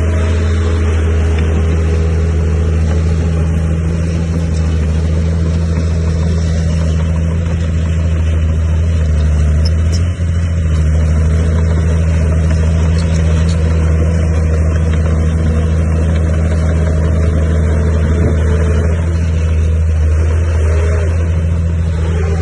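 Heavy diesel engine of earthmoving machinery running steadily and loudly, with a brief dip about ten seconds in.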